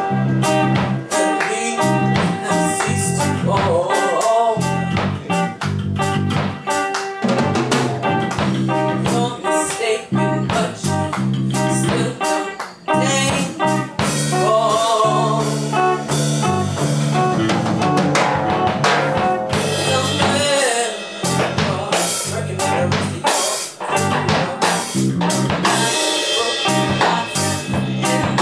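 A live blues band playing: a drum kit with rimshots over a steady bass line, with some singing at times.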